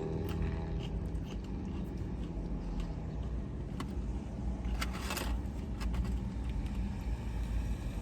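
Low steady rumble of a parked car idling, heard from inside the cabin, with a few short clicks and a brief rustle near the middle.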